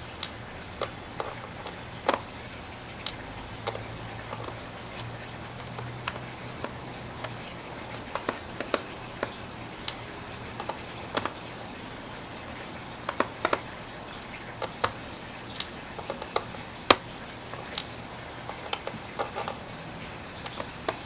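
Irregular small clicks and taps of metal tools and screws against a laptop's case and parts, a few a second at most, with the loudest click about 17 seconds in, over a faint low hum.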